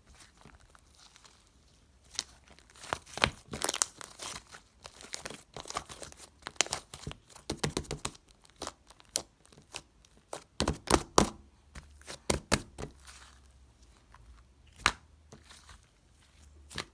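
Slime being played with by hand: a dense run of sharp, irregular clicks and crinkling pops, busiest in the middle and thinning out near the end with one last loud pop.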